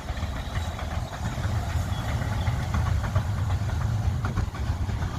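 A Romney, Hythe and Dymchurch Railway miniature train running along the line, under a steady low rumble of wind buffeting the microphone.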